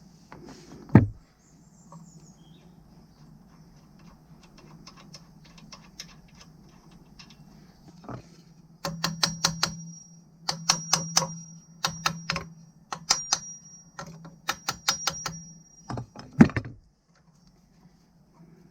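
Ratchet wrench clicking in quick runs of about a second each as the brake caliper slider bolts are undone, with a sharp metal knock about a second in and another near the end.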